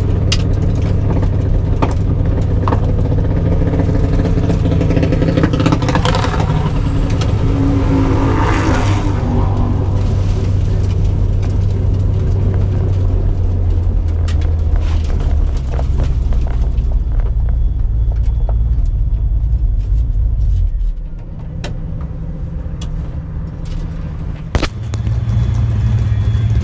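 Car engine running at low speed with a steady low rumble. Its note steps down a couple of times, drops quieter about three-quarters of the way through, and picks up again near the end.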